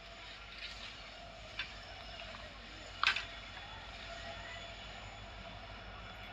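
Electric locomotive hauling a passenger train, heard as a steady hum with a faint whine, and a sharp click about three seconds in.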